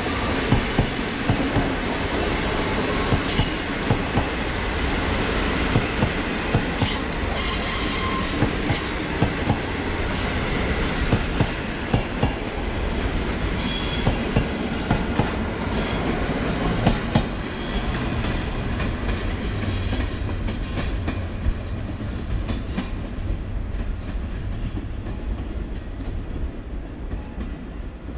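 PKP Intercity passenger coaches rolling past on the rails, with a continuous rumble and frequent sharp clicks from the wheels. The sound fades over the last several seconds as the train pulls away.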